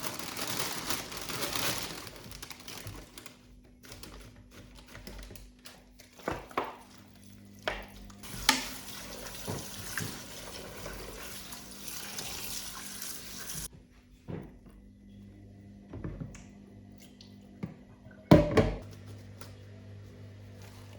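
Water running in short spells, with scattered clinks and knocks of household things; one louder knock near the end.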